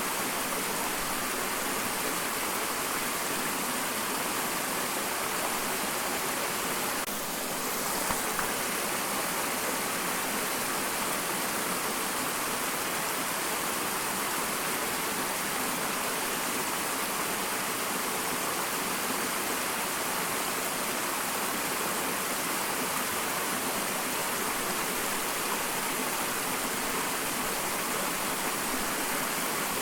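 Small waterfall: a steady rush of falling water, with a slight dip and a faint tick about eight seconds in.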